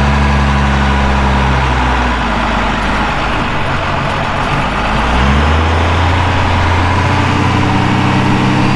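Cummins 6BT inline-six turbo diesel in an old off-road tow truck running, its engine speed dropping about two seconds in and picking up again about five seconds in.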